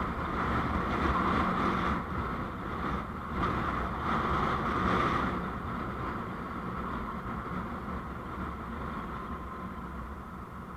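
Steady vehicle running noise on the road, engine rumble with tyre and wind hiss, growing quieter after about five seconds.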